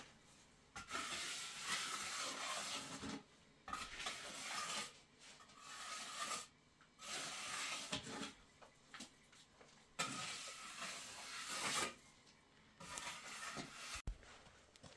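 Repeated scraping strokes, each lasting one to two seconds with short pauses between, like a tool or hand worked back and forth over a rough surface.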